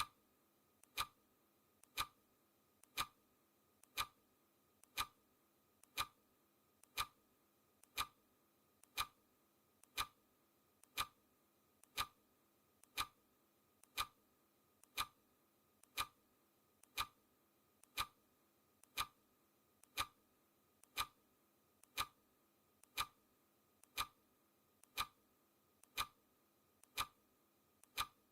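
Clock ticking steadily at one tick a second, louder and softer ticks alternating in a tick-tock pattern, counting down a timer.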